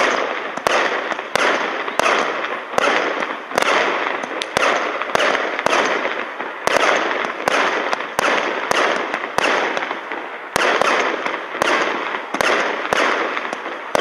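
King Bird "Mother's Day" 500-gram fireworks cake firing shot after shot, about three shots every two seconds, each a sharp report followed by a fading wash of noise.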